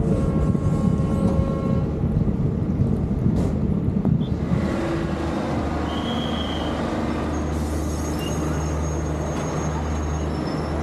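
Passenger train on the move, heard from outside the coaches: a rough, uneven rumble of wheels on rail. About four and a half seconds in it settles into a steadier, quieter low hum.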